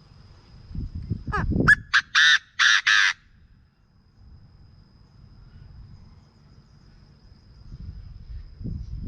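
Chinese francolin giving its loud, harsh call about a second in: a few quick rising notes, then four strident clipped notes, lasting about two seconds. A low rumble and a faint steady high whine run underneath.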